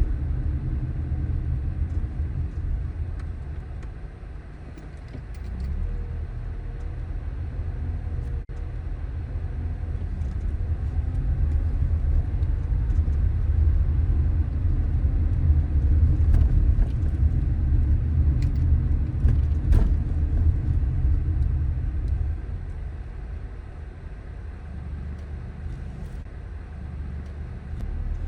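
Car driving on city streets: a low rumble of road and engine noise that swells and eases with speed, dipping briefly about four seconds in and again in the last few seconds, with a few faint clicks.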